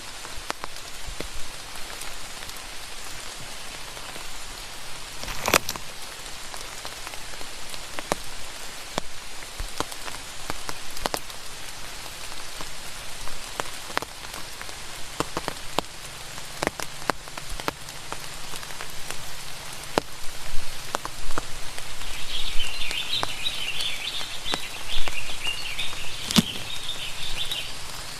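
Steady rain pattering, with many separate drops striking close by and a louder knock about five seconds in and again near the end. Near the end a rapid, high chirping joins in for several seconds.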